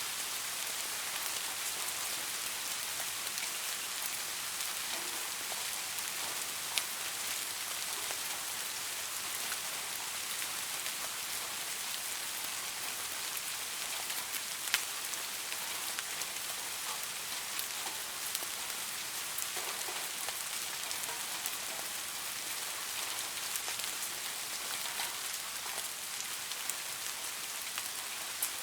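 Steady rain falling on leaves, an even hiss dotted with single drop ticks, a few of them sharper and closer, about 7 and 15 seconds in.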